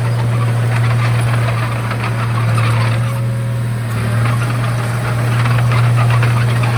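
Komatsu D31A bulldozer's diesel engine running steadily: a constant low hum with a dense rattle over it.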